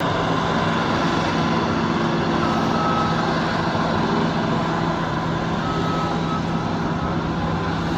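Heavy construction machinery with a diesel engine running steadily, a continuous low hum, with two brief high beeps a few seconds apart.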